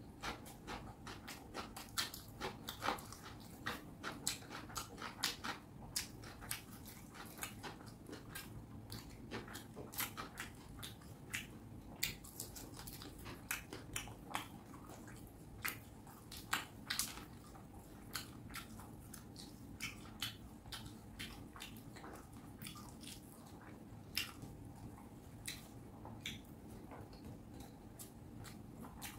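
Close-up eating sounds of a person chewing fish curry with rice: many short, wet mouth clicks and smacks at an irregular pace.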